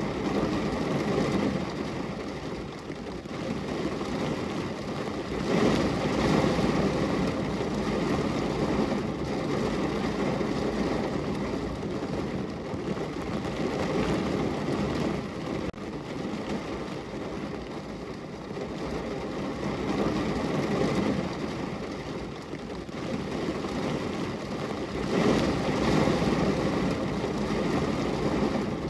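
Rain falling on a window pane, a steady rushing patter with a low rumble underneath that swells and eases several times.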